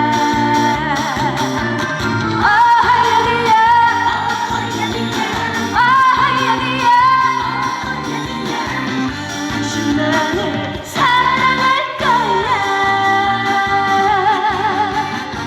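A woman singing a trot song with vibrato over a pop backing track with a steady beat.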